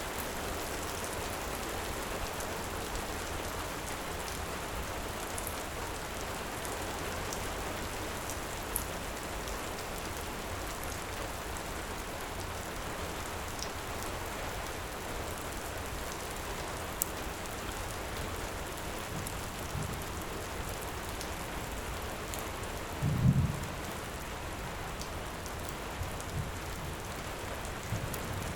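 Steady heavy rain with sparse faint crackles of a wood fire, and a brief low thump about two-thirds of the way through.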